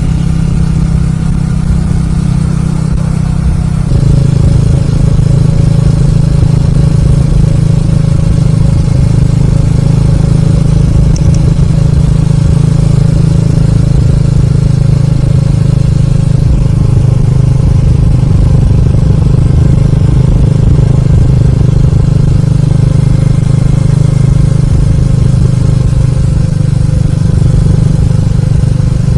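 Motorcycle riding at expressway speed: a steady engine drone mixed with heavy wind noise on the microphone. It gets louder and fuller about four seconds in, then holds steady.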